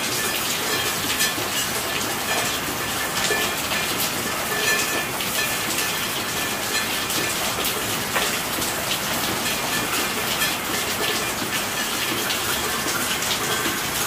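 Steady rainfall: an even hiss with many small, sharp drop ticks scattered throughout.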